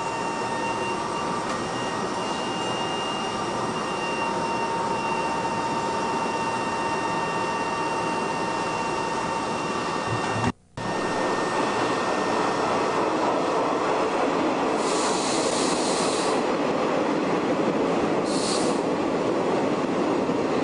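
Steady hum and hiss of an old Shin-Keisei electric train standing still, with faint whining tones. From about halfway through, a train on the adjacent track rumbles louder as it comes alongside, with high wheel squeals twice near the end.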